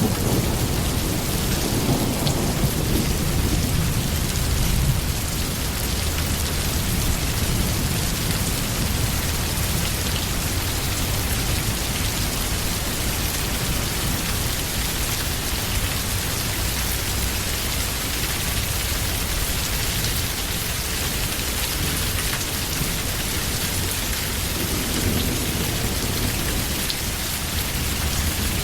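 Steady heavy rain, with low rolls of thunder in the first few seconds and again near the end.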